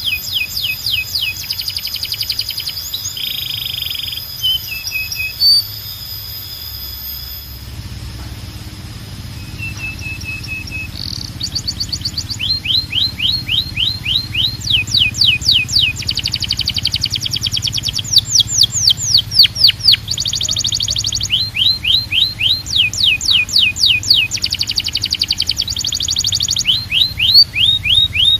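Canary song: rolls of rapid, repeated sweeping notes, broken by steady whistled notes. The song thins out in a quieter stretch about a quarter of the way in, and a low background hum sits under it from there on.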